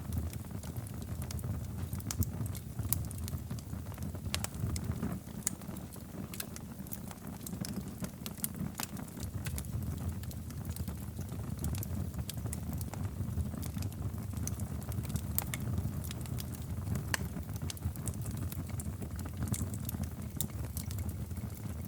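Wood fire crackling in a fireplace: a low steady rumble of flames with many irregular sharp pops and snaps.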